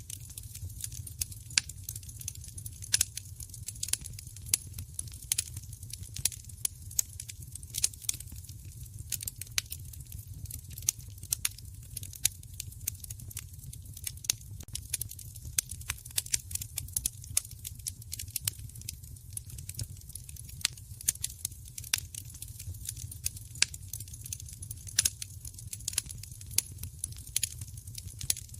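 Wood fire crackling in a fireplace: sharp, irregular pops and snaps, several a second, over a low steady rumble of burning.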